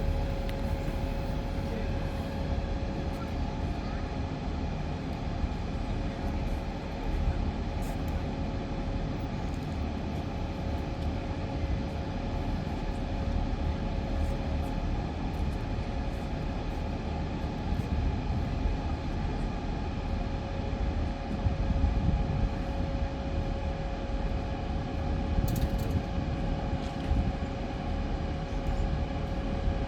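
Steady hum of a large swarm of light-show drones hovering, with one constant mid-pitched tone over a low rumble.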